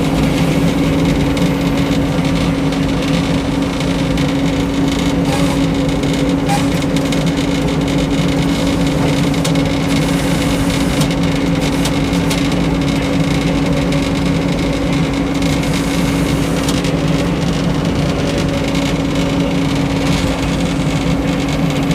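Frick sawmill running steadily under its engine, a constant loud hum with a few faint clicks along the way.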